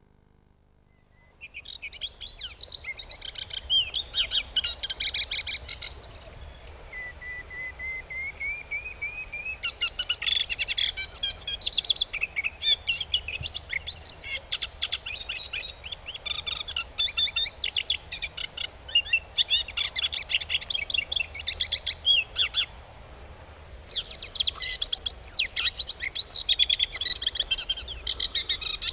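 Birds singing: many rapid high chirps and twitters overlapping, with one slow rising whistle about seven seconds in. The song starts after a second or so of silence.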